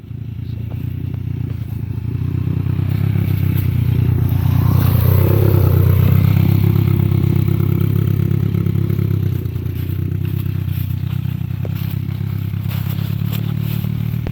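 Motorcycle engine running in a steady low drone, growing louder over the first few seconds and easing back about nine seconds in.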